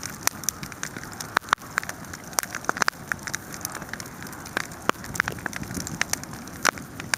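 Wood fire burning: a steady hiss with many irregular sharp crackles and pops.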